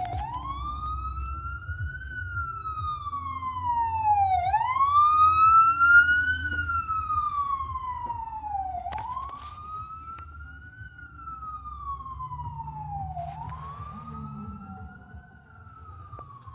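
Ambulance siren wailing, sweeping slowly up and down about every four and a half seconds. It grows louder toward the middle and then fades, over a low traffic rumble.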